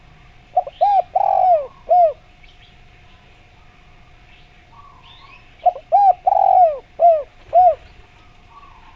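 Spotted dove (derkuku) cooing: two phrases of about five short arched coos each, with a longer drawn-out note in the middle of each phrase, the second phrase about five seconds after the first. A faint steady tone sits under the coos, and small birds chirp faintly in the background.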